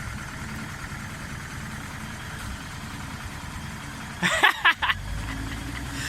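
Off-road vehicle's engine idling steadily, then three or four short car-horn toots in quick succession about four seconds in.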